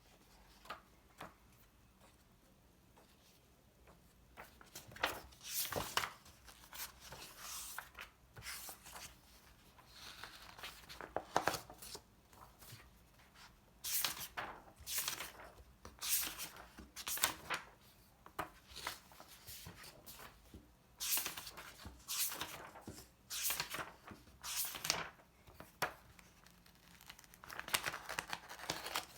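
Handling noises: a long string of short rustles and tearing sounds, with pauses between them. The first few seconds are nearly quiet, and the sounds come in quick runs from about five seconds in.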